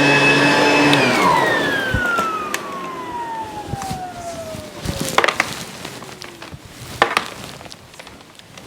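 ProTeam ProForce 1500XP upright vacuum running, then switched off about a second in; its motor winds down with a falling whine over about four seconds. A few knocks and clicks follow.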